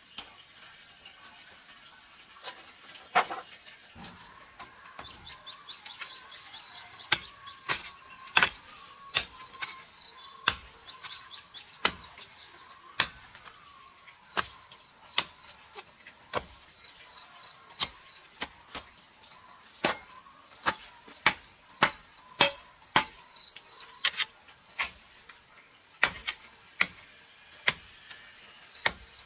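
Sharp strikes of a hand tool on wood, irregular, roughly one a second, over a steady high insect drone that grows louder about four seconds in.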